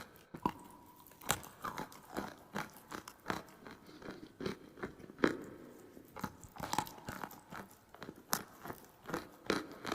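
Close-up crunching of dry clay: sharp, irregular crunches about once or twice a second, the loudest a little past the middle.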